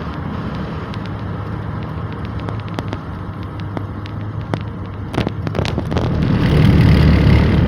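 Road noise from a car being driven: a steady low rumble of engine and tyres with scattered sharp clicks, swelling louder about six seconds in.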